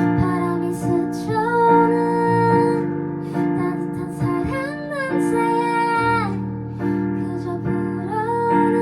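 A woman singing a slow, gentle melody over instrumental accompaniment, with long held notes.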